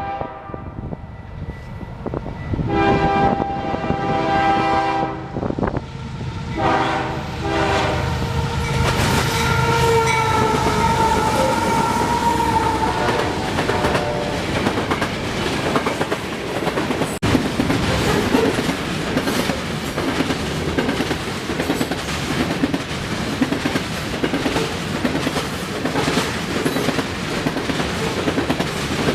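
Train horn sounding a long blast a few seconds in and a shorter one soon after, then the train passes close by with steady rumble and rhythmic clickety-clack of wheels over rail joints.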